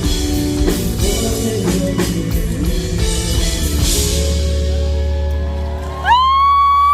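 Live rock band, drums and electric guitar, playing the last bars of a song and settling into a held final chord. About six seconds in, a fan close by lets out a loud, high-pitched cheer that rises and then holds.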